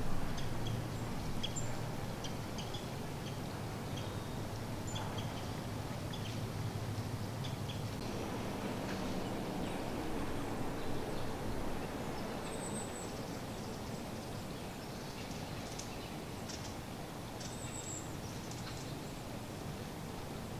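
Scattered short bird chips and calls, many in quick succession during the first half and a couple of higher whistled notes later on, over a steady low outdoor background hum.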